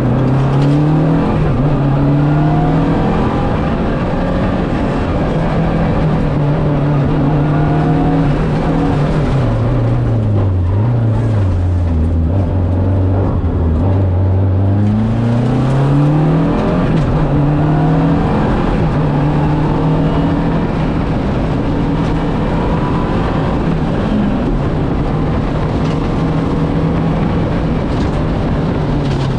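Lancia Delta Integrale's turbocharged four-cylinder engine driven hard on a rally stage. The revs climb and drop back repeatedly through gear changes, sink low from about ten seconds in, then climb again from about fifteen seconds.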